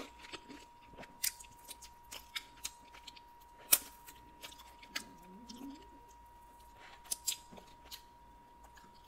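Close-miked eating: chewing chicken wing meat, with scattered sharp, wet mouth clicks and lip smacks.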